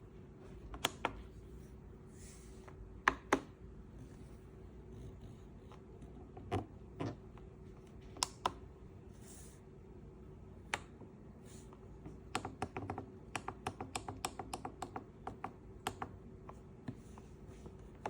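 Sharp clicks and taps of a slow cooker being handled, scattered at first, then a quick run of about five clicks a second for several seconds. A faint steady hum runs underneath.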